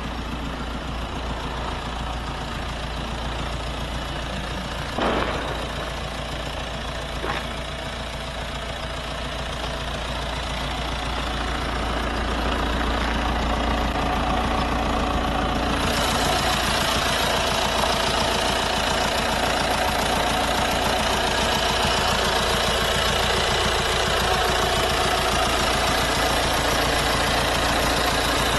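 Audi 2.0 TDI four-cylinder turbodiesel engine running steadily, with two short knocks about five and seven seconds in. It grows louder around ten to thirteen seconds in and sounds brighter from about sixteen seconds on.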